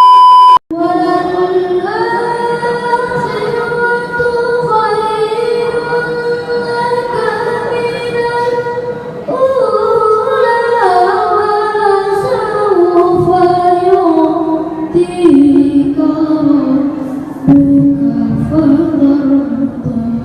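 A loud steady beep for about half a second at the start, then a child reciting the Quran in melodic tilawah style, one voice holding long ornamented notes that slide slowly between pitches.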